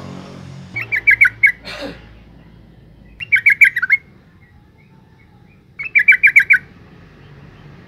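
Female yellow-vented bulbul calling: three short bursts of rapid chattering notes, each under a second long and about two and a half seconds apart.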